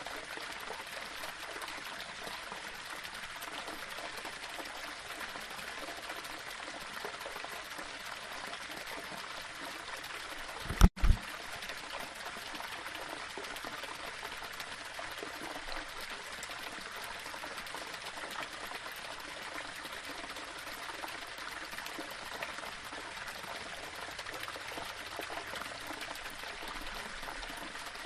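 Small waterfall running over rocks: a steady rush and trickle of water. About eleven seconds in, a short, loud low thump in two quick parts breaks in, with the sound cutting out for an instant.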